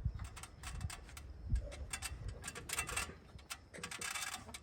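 Irregular clicking, crackling and scraping of twigs and packed dirt being pulled out of a rain gutter by a gloved hand.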